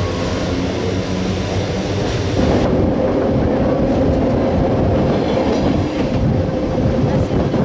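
Train Jaune metre-gauge electric train running, heard from an open-air car: steady rumble of wheels on the rails with some clickety-clack. The sound changes abruptly about two and a half seconds in, and a steady whine runs from there on.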